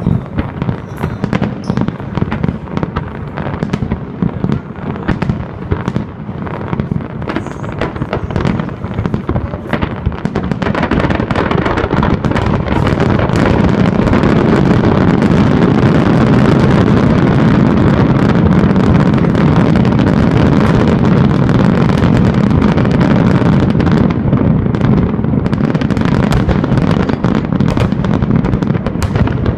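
Fireworks going off in rapid, overlapping bangs and crackles. About a third of the way in they merge into a louder, almost continuous barrage, which thins back into separate bangs near the end.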